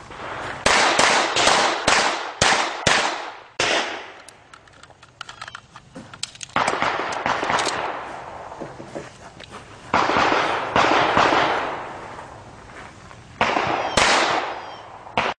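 Pistol shots fired on a timed competition stage. A quick string of about seven shots opens it, then come pauses and further groups of two or three shots, each shot trailing a long echo.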